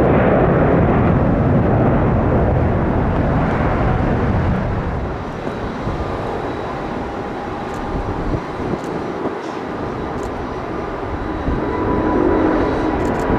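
Jet airliner passing, the engines' roar fading away over the first five seconds or so. Near the end another engine sound builds, with a steady whine.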